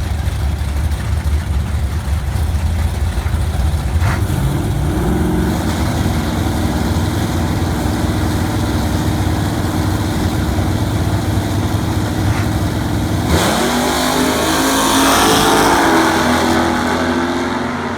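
Drag car engine idling with a choppy low rumble. About thirteen seconds in, a sudden louder rush as an engine revs up, its pitch rising and then holding.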